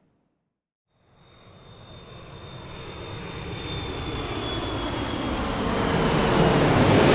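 Airliner cabin noise fading in after about a second of silence: a steady engine rush that grows louder throughout, with a thin high-pitched engine whine that drifts slightly lower.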